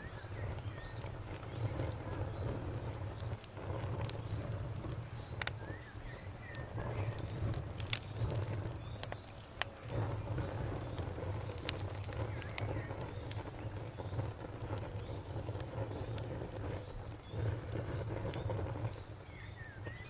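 Wood fire crackling with scattered sharp pops over a steady low rumble, while a cricket chirps in a fast, even pulse throughout and a bird gives brief calls now and then.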